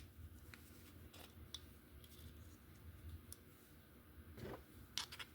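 Faint, scattered small clicks and taps of a slot car's magnet and metal shim being handled and fitted into its plastic chassis, with a sharper click about five seconds in.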